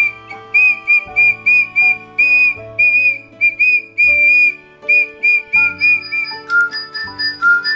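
Toy bird whistle chirping in quick, warbling high notes, about three a second, dropping to a lower pitch near the end, over background music.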